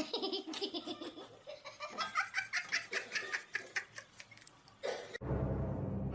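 A person laughing hard in quick repeated bursts, the pitch rising and falling, for about five seconds. Near the end it cuts off abruptly and a steady low hum begins.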